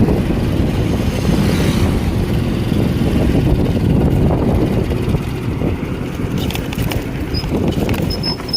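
Wind buffeting the microphone while riding a Hero HF Deluxe, a small single-cylinder four-stroke commuter motorcycle, with its engine running underneath. It eases off over the last couple of seconds as the bike slows, and there are a few short high beeps near the end.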